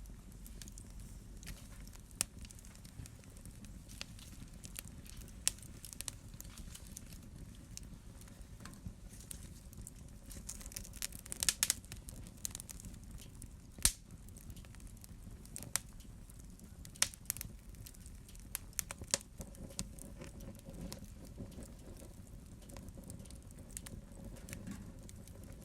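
Wood fire burning in a fireplace: irregular crackles and sharp pops over a low rumble of flames, with a quick run of louder pops about halfway through.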